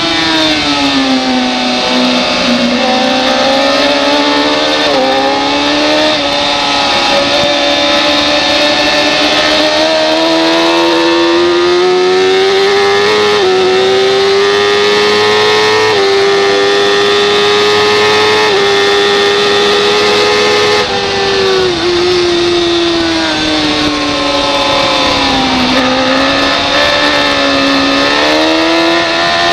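Racing superbike engine at high revs. Its pitch falls in the first few seconds, climbs and holds high through the middle, drops again for a few seconds, then climbs near the end, as it slows for corners and accelerates out of them.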